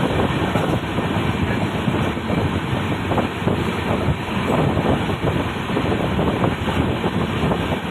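Steady, loud running noise of a moving passenger train heard from inside the coach, a dense rumble and rattle with no distinct breaks.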